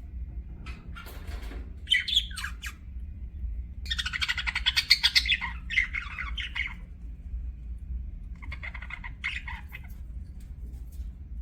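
Budgerigars chattering and squawking in bursts of rapid chirps: a short burst about 2 s in, a long busy burst from about 4 to 7 s, and another near 9 s.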